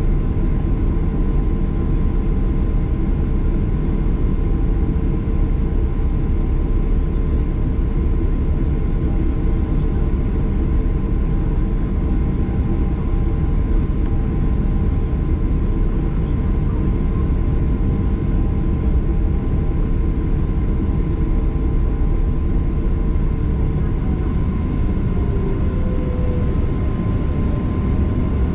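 Cabin noise of a Boeing 737-800 on the ground, its CFM56-7B engines running at low power while taxiing: a steady rumble with a faint steady hum. One of the tones in the hum drops out near the end.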